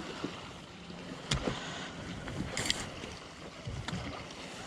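Handling sounds in a kayak: a sharp knock about a second in and a short splashy hiss near the middle, over a faint steady background.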